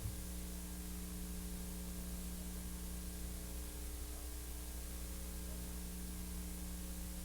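Steady electrical mains hum with its overtones over a constant hiss, with no other sound on the track.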